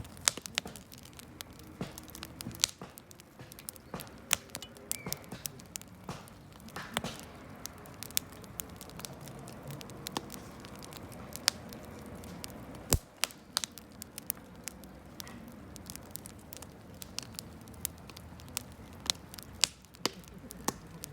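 Campfire burning, the wood crackling with many sharp, irregular pops and snaps over a low steady rush of the flames.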